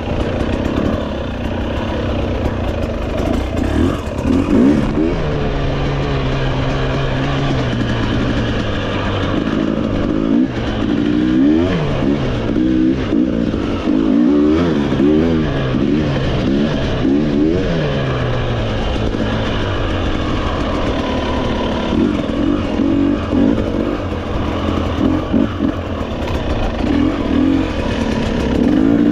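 Off-road motorcycle engine being ridden on a dirt trail, the revs rising and falling again and again with the throttle.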